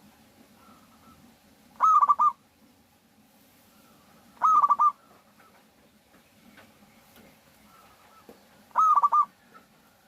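Local zebra dove (perkutut) cooing: three loud, short calls of several quick, stuttering notes, about 2.5 to 4 seconds apart, with fainter single coos between them.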